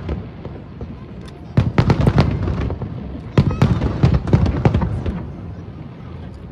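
Aerial fireworks going off in rapid volleys of sharp bangs and crackles with a low rumbling echo. One burst cluster comes about a second and a half in and another about three and a half seconds in.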